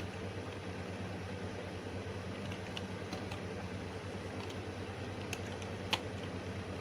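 Steady hum of a computer fan, with a few scattered clicks, the loudest about six seconds in.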